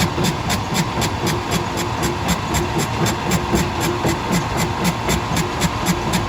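Heavy machinery running steadily: a rapid, even clatter of about five clicks a second over a low engine rumble and a constant hum.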